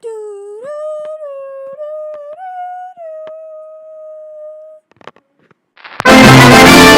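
A high voice holds one long note for about five seconds, stepping up and down in pitch like a tune, then loud music starts near the end.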